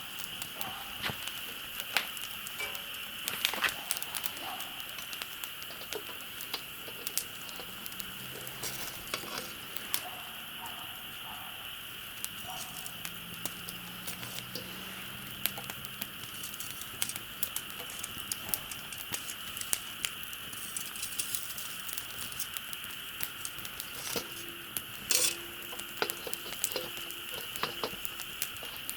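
Campfire crackling, with irregular sharp pops and snaps over a steady high hiss.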